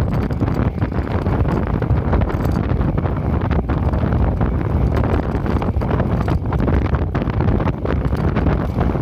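Steady wind noise buffeting the microphone, with faint irregular ticks through it: a small 'chiri-chiri' rattle, an abnormal noise whose source has not been found.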